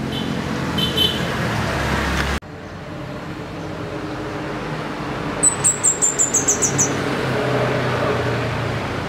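Orange-bellied flowerpecker calling: a quick run of about ten very high, thin notes that step slightly down in pitch over about a second and a half, past the middle, with a couple of shorter chirps near the start. A steady background hum runs underneath, broken by an abrupt cut about two seconds in.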